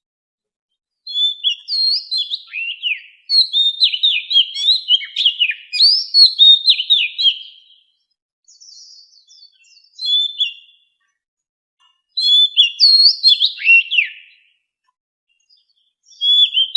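Oriental magpie-robin singing: phrases of quick, clear whistled notes that slide up and down, in bouts of several seconds with silent pauses between them.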